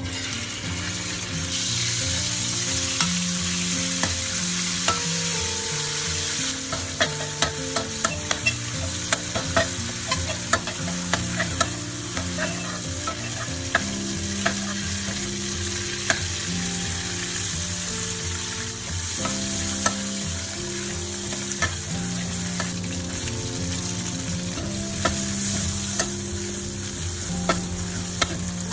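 Salted fish frying in hot oil in an aluminium wok, sizzling steadily, while a metal spatula stirs it and taps and scrapes against the wok. The taps come thick from about seven seconds in.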